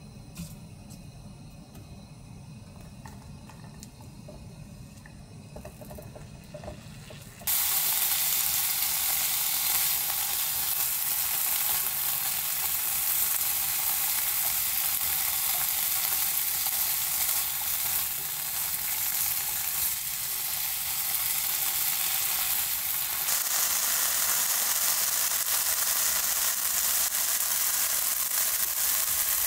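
Food sizzling in a hot frying pan: a steady frying hiss that starts suddenly about seven seconds in. Before that there is only a low rumble.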